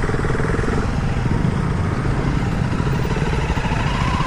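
Motorcycle engine running at low speed, a steady rapid pulsing rumble.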